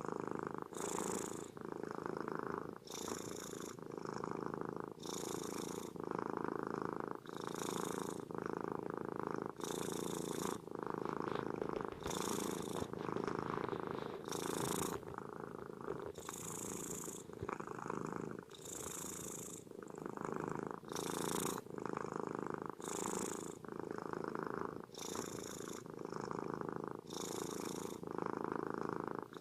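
A domestic cat purring continuously, in a steady rhythm that swells and eases about once every two seconds as it breathes in and out.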